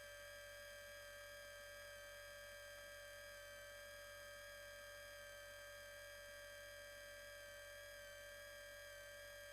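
Near silence apart from a faint, steady electronic whine: several fixed tones that never change, the strongest a mid-pitched one, over a low hiss.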